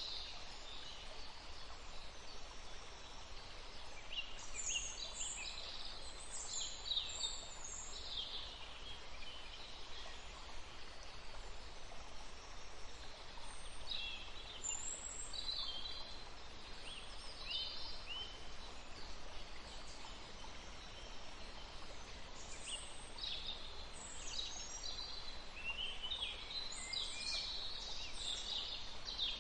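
Forest birds chirping in scattered clusters of short, quick high calls, busiest around a quarter of the way in and again near the end, over a steady faint low background rumble.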